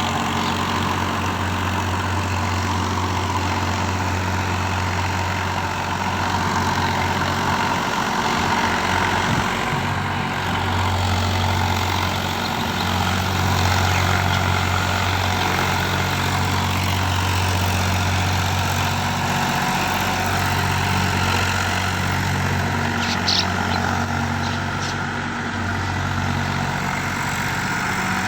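Tractor engine running steadily, with slight swells in level and a couple of brief clicks about three quarters of the way through.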